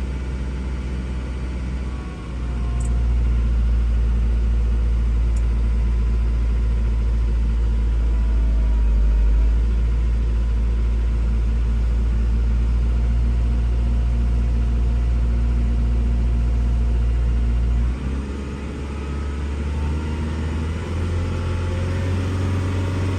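Kia Sorento 2.5 CRDi diesel engine, in known-good condition, held steady at just under 2,000 rpm. Its note changes briefly about 18 seconds in, then picks up toward the end as the revs are raised toward 3,000.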